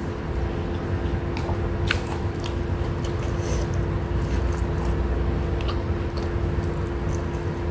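Close-miked chewing and wet mouth sounds of a person eating soft chicken rice and roasted chicken by hand, with a few short sharp clicks. A steady low hum runs underneath.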